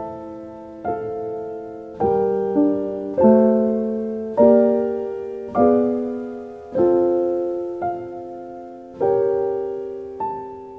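Slow, gentle piano music: a note or chord struck about once a second, each ringing out and fading before the next.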